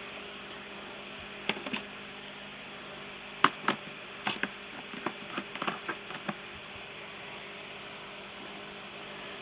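Allen wrenches and small tools clicking and clinking as they are set into a toolbox tray: a scatter of light clicks, thickest from about three to six seconds in, over a faint steady hum.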